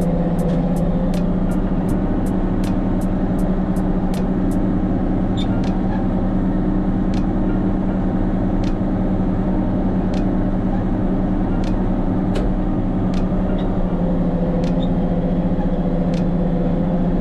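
Case 2670 tractor's turbocharged six-cylinder diesel running steadily with a strong, even hum. Sharp ticks come about three a second for the first few seconds, then at scattered intervals.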